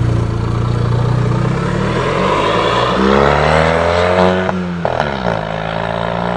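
Fiat 500 Abarth's turbocharged four-cylinder engine running through a full aftermarket exhaust system. The pitch climbs sharply about three seconds in, then drops back as the throttle closes, with two sharp cracks from the exhaust, and settles to a steady note near the end.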